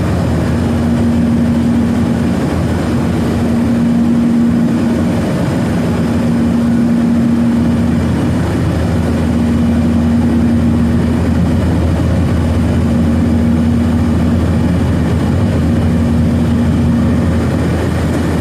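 Cabin noise of a Boeing 737-900ER with its CFM56-7B turbofans running: a steady roar of engines and airflow. A hum in the roar swells and fades about every three seconds, the beat of the two engines turning at slightly different speeds.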